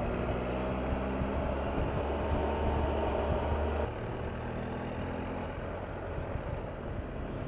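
Triumph Tiger 1200's three-cylinder engine running steadily under way, with road and wind noise. About four seconds in, the engine note changes and drops a little in level as the throttle eases.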